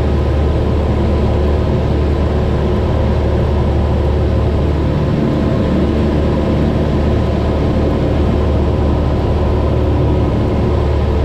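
Cessna 172's piston engine and propeller droning steadily in flight, with no change in pitch.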